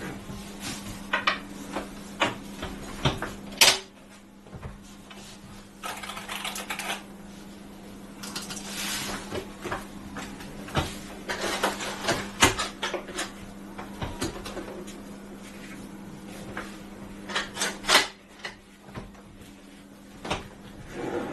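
Handling noises from unboxing and setting up a Herman Miller Embody office chair: a series of irregular clicks and knocks with a few short stretches of rustling or scraping, over a steady low hum.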